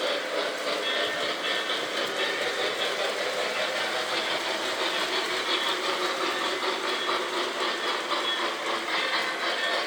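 Model train running steadily along its track, a continuous even running noise.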